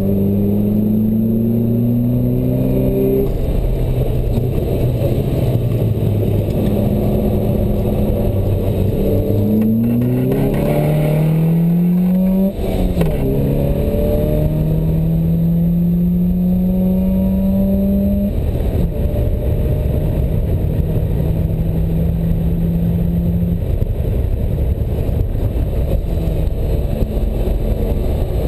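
Open-top sports car's engine heard from the cockpit while lapping a race circuit, climbing in pitch under acceleration and dropping sharply at a gear change about twelve seconds in, then holding steady. Heavy wind rush runs under it throughout.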